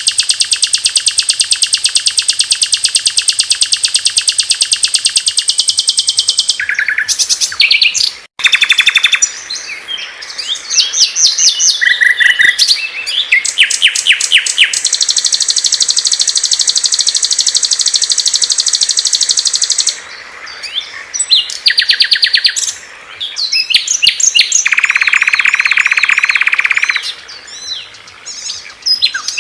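Small songbirds singing in a string of separate recordings that switch abruptly from one bird to the next: a very fast, high continuous trill for about six seconds, then assorted sharp chirps, whistled phrases and rapid trills, with a steady buzzy note held for a couple of seconds near the end.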